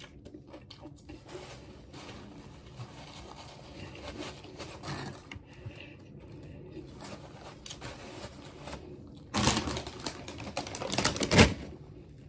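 Wet chewing and mouth clicks of someone eating a sandwich, with finger-licking. About nine seconds in comes a louder crackling of a crumpled brown paper bag, which lasts about two seconds.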